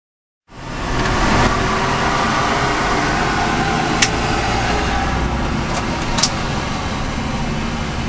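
A bus engine running with steady road and vehicle noise, cutting in half a second after a silence; two brief sharp clicks come about four and six seconds in.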